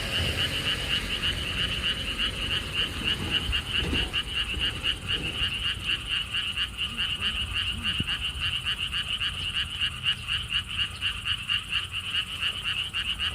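A chorus of pond frogs calling together, many voices overlapping in a fast, continuous pulsing trill.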